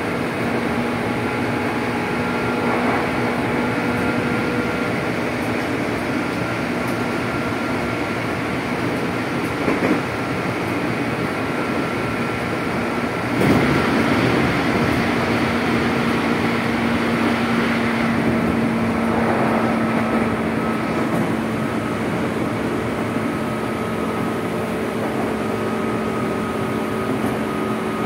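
Running sound inside a JR 205-series electric multiple unit motor car at speed: a steady rumble of wheels on rail with a steady hum over it. A sharp knock comes about halfway through, with a smaller one a few seconds before.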